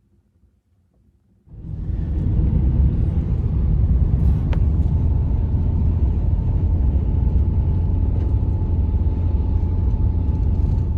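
Strong blizzard wind buffeting the microphone: a heavy, steady low rumble that starts suddenly about a second and a half in, with a faint high whistle running through it.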